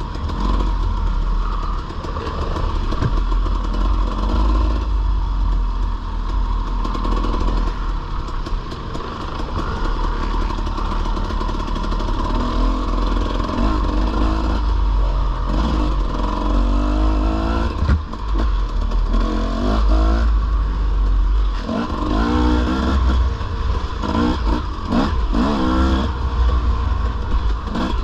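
Dirt bike engine running under riding load, its pitch rising and falling repeatedly as the throttle is worked, with a steady low rumble and some rattling.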